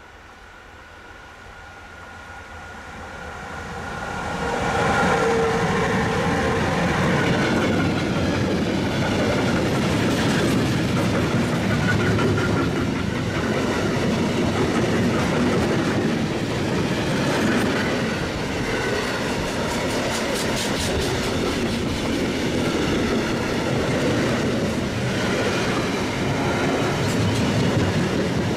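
A container freight train approaching, growing louder over the first few seconds, then its flat wagons rolling past close by with a steady rumble and clatter of wheels over the rails.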